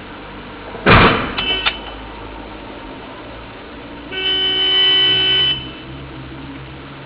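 A loud bang of impact about a second in, followed by a car horn sounding one steady blast of about a second and a half.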